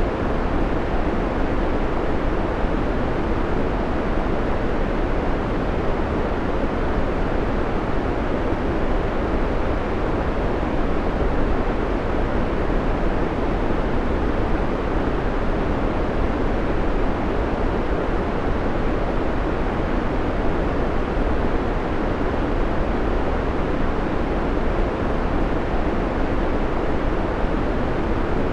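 Steady white noise, an unchanging hiss with a heavy low end, as the background of a countdown timer.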